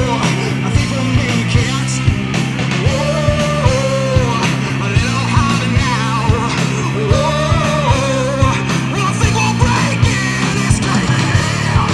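A rock band playing live on a steady drum beat under distorted guitars and bass, with a lead singer's sung phrases coming in and out.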